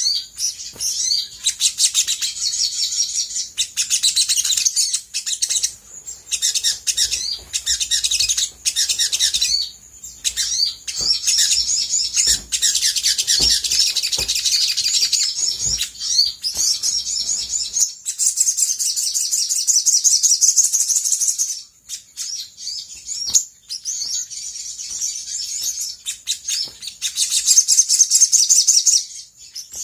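Olive-backed sunbird singing a rapid, high-pitched chattering trill with sharp chirps, in long runs broken by brief pauses.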